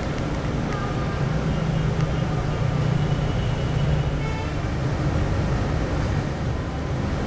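Scania K360i coach under way, heard from inside the cabin: a steady low engine drone over road and tyre noise. The engine note grows louder for a few seconds in the middle, then eases.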